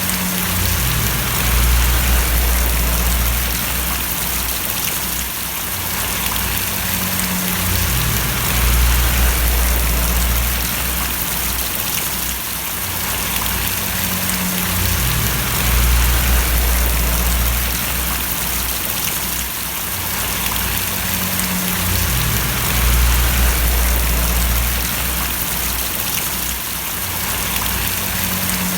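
Steady rain falling and splashing, a continuous hiss, with a deep low rumble that swells and fades about every seven seconds.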